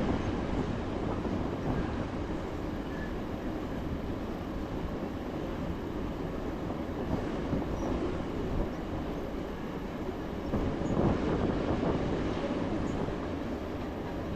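Train rolling along the rails: a steady rumble of wheels and wagons, swelling louder about three-quarters of the way through.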